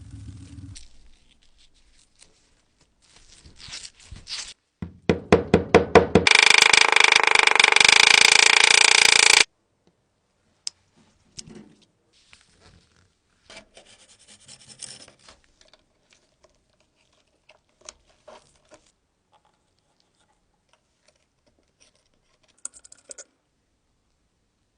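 Restoration work on a Zippo lighter: scraping, rubbing and light tapping of metal and tools. About five seconds in, a rapid run of strokes speeds up into a loud steady noise that lasts about three seconds and cuts off suddenly.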